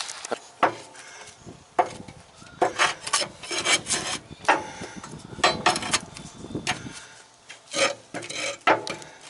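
Irregular scraping strokes on the underside of a mower deck as caked grass is scraped off.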